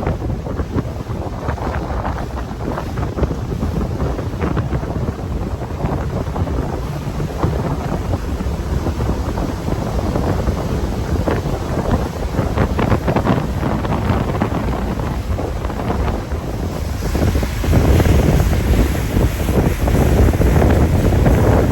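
Wind buffeting the microphone and water rushing past a moving boat, a loud steady rumble that grows louder about three quarters of the way through.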